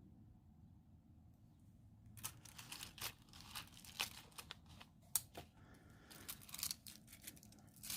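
Crinkling, rustling handling noise with many sharp clicks, starting about two seconds in.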